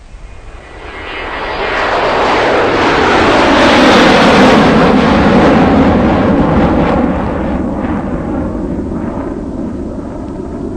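A vehicle passing close by: a loud rushing noise swells over about three seconds, peaks, then fades slowly with a falling pitch.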